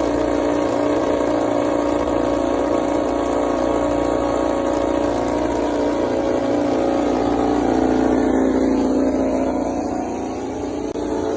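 An engine running steadily at a constant speed, swelling a little about eight seconds in and easing off near the end.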